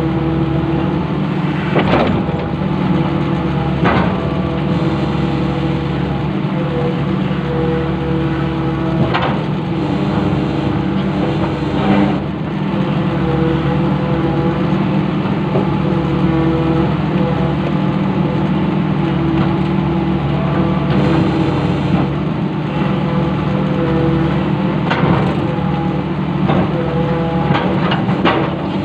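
Long-reach excavator's diesel engine running steadily, with a higher tone that comes and goes and a few sharp knocks now and then.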